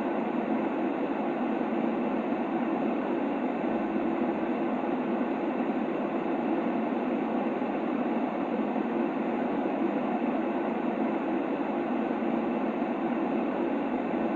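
A steady sleep-aid noise track for a baby: an even, unbroken rushing hiss that stays the same throughout, strongest in the low-middle pitches, with little deep bass and a muffled top.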